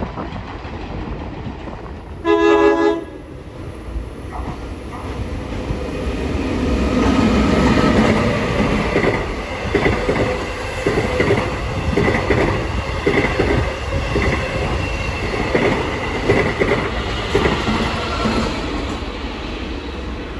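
Long Island Rail Road train sounding one short horn blast, then passing close by with its wheels clacking rhythmically over the rail joints for most of the time.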